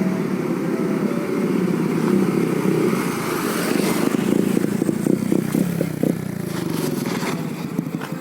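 Exhaust note of a Yamaha New Jupiter MX four-stroke single, bored up to 177cc and running through a DX Generation Sphere Oval aftermarket racing exhaust. The note turns choppy and crackly a few seconds in, then eases a little near the end.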